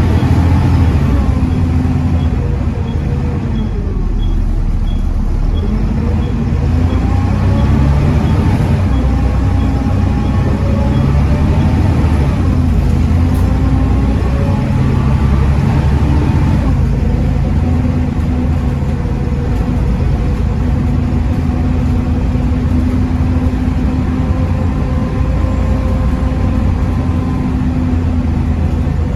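Volvo B7TL bus's 7.3-litre Volvo D7C diesel engine under way, driving through a ZF Ecomat five-speed automatic gearbox. The engine note drops, climbs as the bus pulls away through the gears, shifts again, then settles to a steady cruise. A faint regular ticking sounds for several seconds in the first part.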